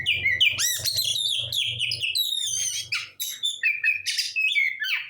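A songbird singing a fast, unbroken string of sharp chirps and short whistled notes that sweep up and down, with a brief dip about three seconds in.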